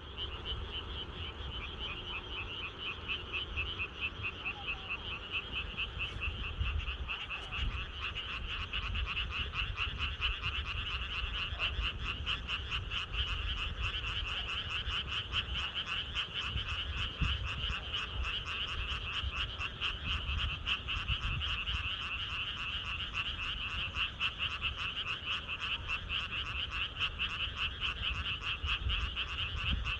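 A chorus of many frogs calling at once, a dense, rapidly pulsing trill that never stops, over a low rumble.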